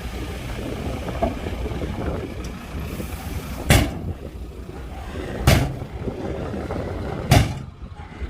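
Heavy earthmoving machinery running with a steady low rumble, broken by three short, sharp bursts about two seconds apart.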